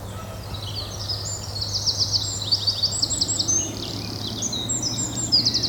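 Wren singing: a fast, high-pitched run of varied notes and rattling trills lasting about five seconds.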